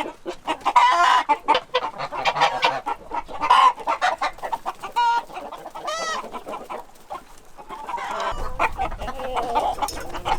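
A flock of Korean native chickens clucking, with one longer drawn-out call about six seconds in.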